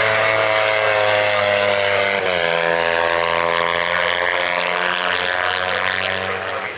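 Small-capacity Kawasaki race motorcycle engine running hard at high revs as it passes. About two seconds in the pitch steps down sharply with an upshift, then climbs again as the bike accelerates.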